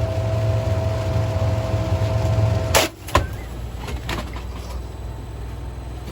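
Washing machine running with a loud steady hum and a held whine, which cut off with a sharp click about three seconds in; a second click follows, then a quieter low hum with a few small knocks.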